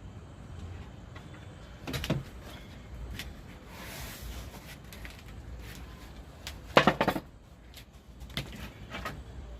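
A few knocks and clattering taps, the loudest cluster about seven seconds in, with a smaller clatter about two seconds in.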